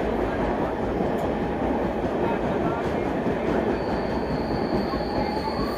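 A moving train running steadily, a dense continuous rumble of wheels on track. A faint thin high tone joins about four seconds in.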